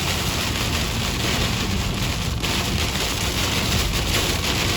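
Heavy rain pelting a moving car, with tyres spraying through water on a flooded road: a steady, loud rush.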